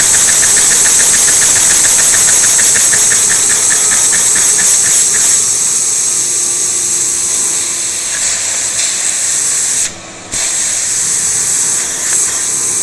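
Homemade butterfly vacuum engine running fast under a steady hiss, with a rapid even ticking each cycle that fades after about five seconds. The sound drops out briefly near ten seconds in.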